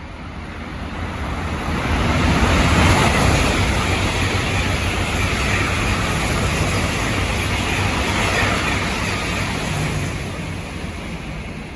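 High-speed train running past on the track, a rumbling rush of wheel and air noise that swells over the first two seconds, holds steady, then eases off near the end.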